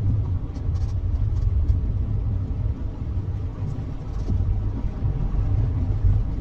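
Low, steady rumble of a car heard from inside the cabin as it drives slowly through deep floodwater.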